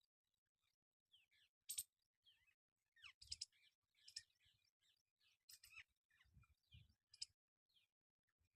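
Faint bird chirps, many short falling notes, broken by four sharp clicks and a couple of soft low thuds.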